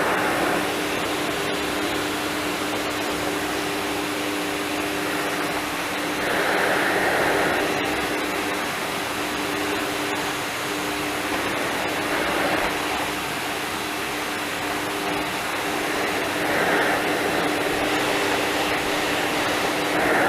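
Philips vacuum cleaner running with a steady motor hum and rush of air, the sound swelling briefly a few times.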